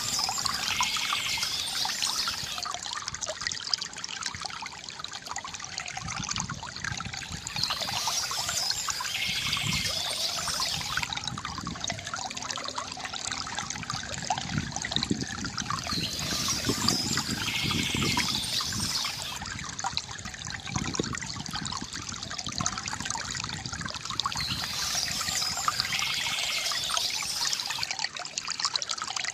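Water from a bamboo fountain trickling and gurgling steadily. A short burst of bird chirping comes back about every eight and a half seconds, four times.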